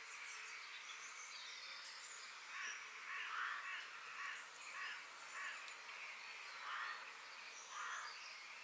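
Wild birds calling: a run of short, rough calls, roughly one a second, with fainter thin high chirps above them over a soft background hiss.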